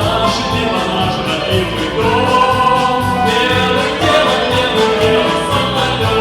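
A male singer holding long notes over instrumental backing with a steady beat.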